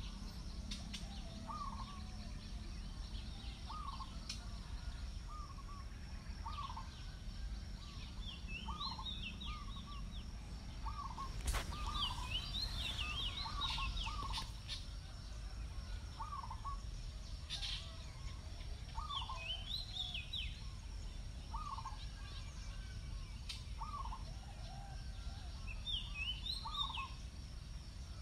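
Birds calling: one short call repeated roughly once a second, with a few bursts of higher chattering calls in between, over a low steady background rumble.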